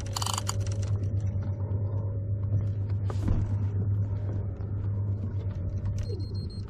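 Fishing reel being cranked in, its gears whirring steadily with many small clicks, the line coming back after sharks took the hooked fish. A low steady rumble sits under it throughout.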